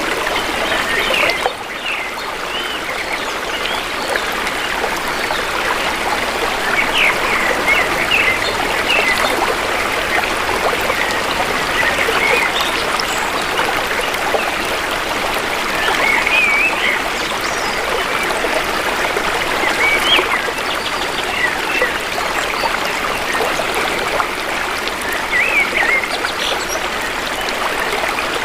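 Shallow river water flowing steadily, with short chirps from forest birds scattered over it.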